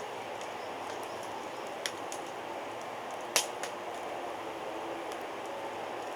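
Wood fire crackling, with a steady hiss and a few sharp pops, the loudest about three and a half seconds in.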